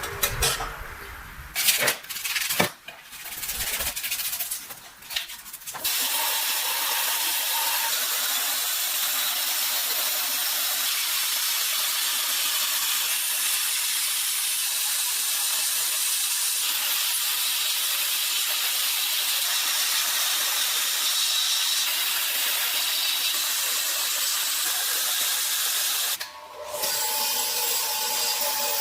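A few seconds of scattered rubbing and knocks of hand-tool work, then a steady spraying hiss that runs for about twenty seconds, breaking off briefly near the end.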